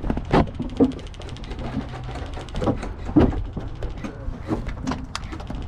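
Airsoft gun firing a rapid full-auto burst lasting about a second and a half, along with several heavy thumps.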